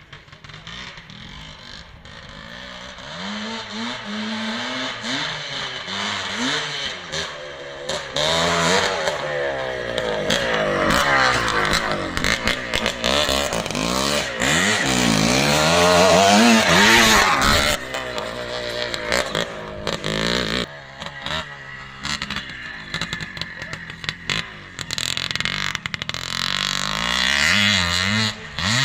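1973 CZ 250 motocross bike's single-cylinder two-stroke engine running and revving, its pitch rising and falling again and again as the throttle opens and closes. It is loudest a little past halfway, drops off sharply about twenty seconds in, then builds up again near the end.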